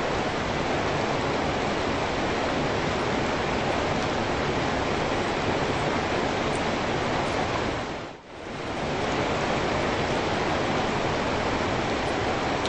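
Steady heavy rain, an even hiss that fades out briefly and swells back about eight seconds in.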